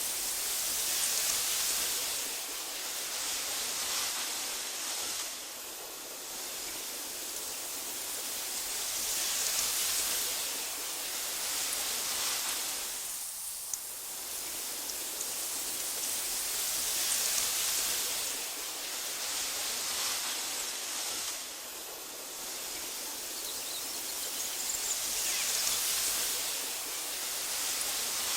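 Wind blowing through tall meadow grass: a soft, airy rustling hiss that swells and eases in slow gusts about every eight seconds.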